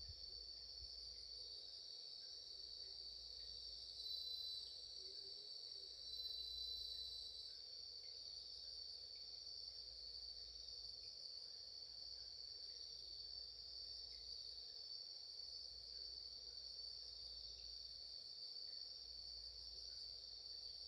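Steady chorus of crickets and other singing insects trilling. A louder, nearer call rises above the chorus briefly about four seconds in, and again about six seconds in.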